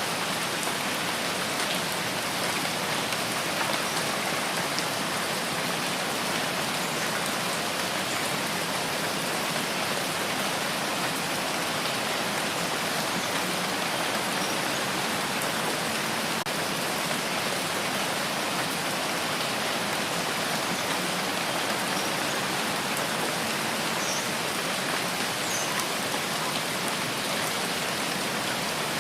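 Steady rain falling, an even hiss with scattered fine drop ticks and no change in strength.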